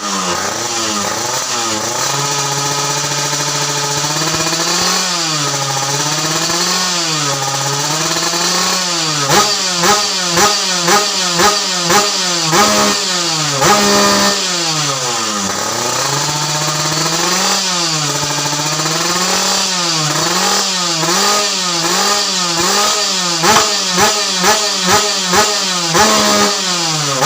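Underbone motorcycle engine of about 116 cc running and being revved: its pitch rises and falls in slow sweeps, with runs of short, quick throttle blips about two a second in the middle and again near the end.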